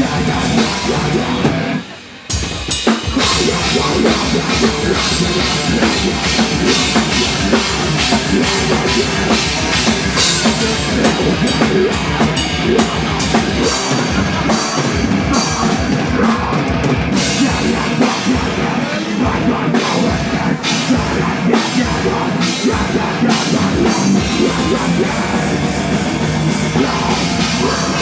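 Rock band playing a heavy, metal-leaning song, with a full drum kit and cymbals driving it. The band stops dead for a moment about two seconds in, then crashes back in.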